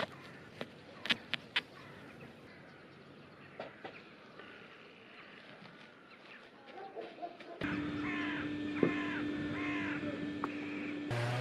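Faint scattered clicks and knocks, then, over the second half, a bird calling repeatedly in short falling calls about twice a second, over a steady hum.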